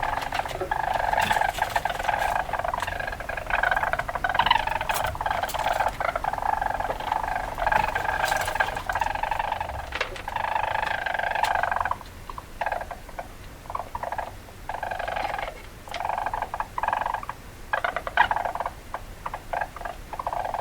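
Weasel calls: rapid, high chattering that runs steadily for about the first twelve seconds, then breaks into short runs with brief gaps and sharp clicks.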